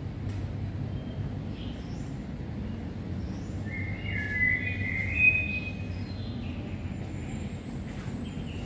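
A bird chirping in short high calls, clustered about four to five seconds in, over a steady low outdoor rumble.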